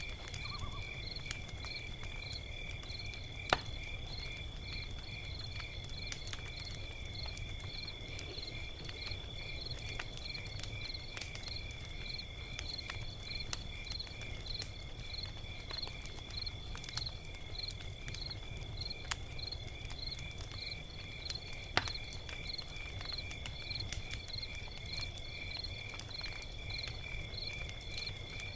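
Log fire crackling with scattered sharp snaps, two of them louder pops, one a few seconds in and one about three quarters of the way through, over a low rumble. Behind it, crickets chirp in a steady, even pulse over a continuous high trill.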